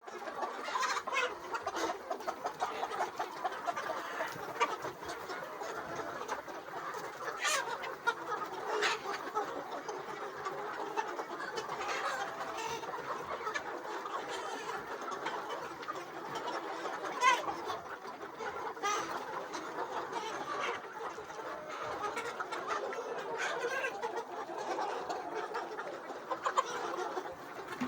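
A flock of chickens clucking together in a steady, dense chorus, with sharper individual calls standing out every few seconds.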